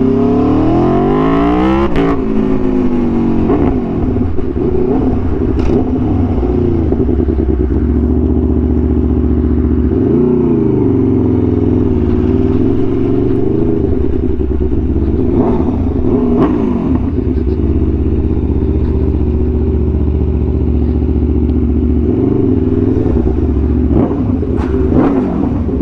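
Aprilia Tuono V4 1100's V4 engine through an SC-Project exhaust, ridden at low speed on light throttle. The engine note climbs over the first two seconds, then holds mostly steady with a few small rises and dips.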